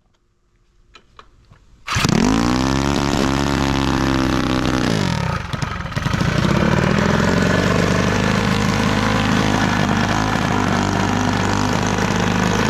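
Custom race mini bike engine, fuelled on methanol and breathing through a DED exhaust pipe, fires up about two seconds in. Its revs climb and hold, sag briefly about five seconds in, then it settles into steady running.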